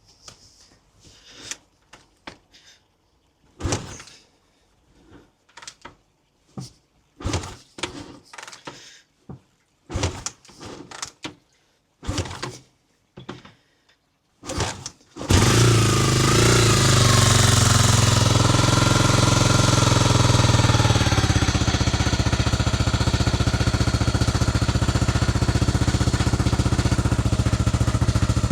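Honda CB250RS single-cylinder four-stroke engine being kick-started on choke: a series of kicks turning it over without firing, then about fifteen seconds in it catches and keeps running steadily, the revs easing down a little a few seconds after it fires.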